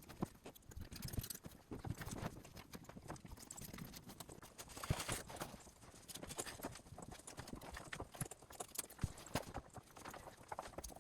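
Faint, irregular knocks and clacks, scattered unevenly.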